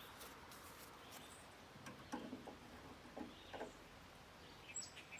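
Near silence with a few faint, short knocks and rustles in the middle, and a few high, short bird chirps near the end.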